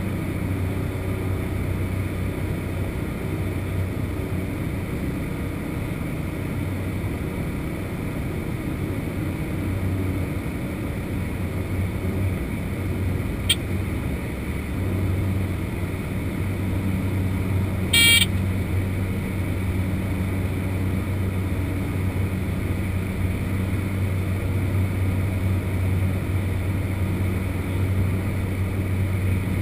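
Cessna 208 Caravan's PT6A turboprop and propeller running with a steady drone, heard from inside the cockpit. A short high beep sounds once partway through, with a faint click a few seconds before it.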